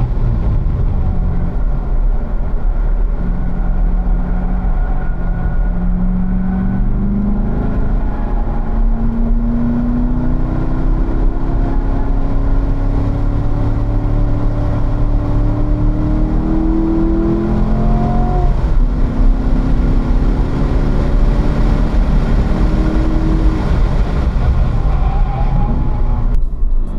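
Chevrolet Corvette C7 Z51's 6.2-litre LT1 V8 pulling under load on a race track, heard from inside the car. Its pitch climbs slowly as the car accelerates, dips about 18 seconds in, then climbs again until about 23 seconds in; the sound cuts off just before the end.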